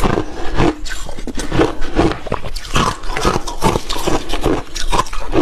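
Close-up chewing and crunching of frozen milky shaved ice, with irregular crunches several times a second.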